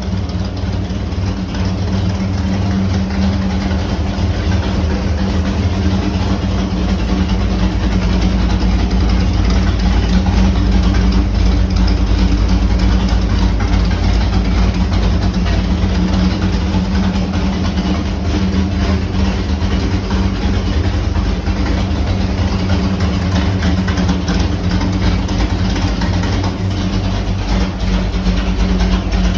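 Carbureted 461 cubic-inch Pontiac V8 with a hydraulic roller cam idling steadily on an engine dyno.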